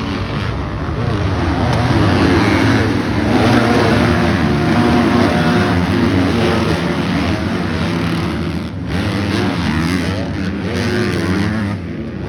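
Dirt bike engines revving, their pitch rising and falling repeatedly as the bikes ride.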